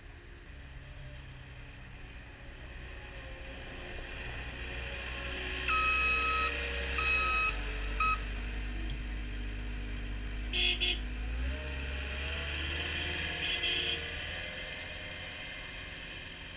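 CAT 236D skid steer loader's diesel engine running under changing load, its note dropping and then rising again. Its backup alarm beeps three times near the middle, and there is a brief clank a little later.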